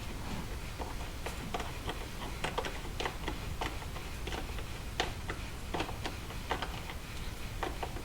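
Hand tools and parts clicking and tapping irregularly, a few light knocks a second, over a steady low hum, as work goes on fitting replacement fuel injectors.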